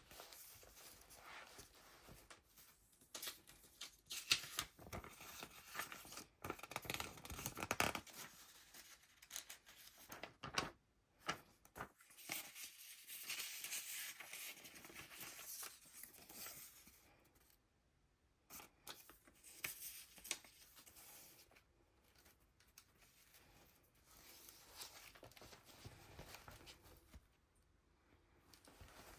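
Pages of a thick handmade junk journal being turned and handled: paper and card rustling and flapping in irregular bursts, with short pauses between page turns.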